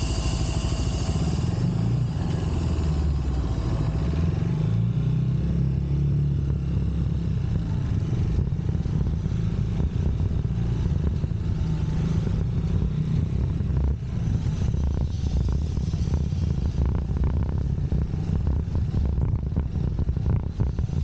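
UM Scrambler X motorcycle engine running while riding, its note rising and falling with the throttle, over steady wind and road noise.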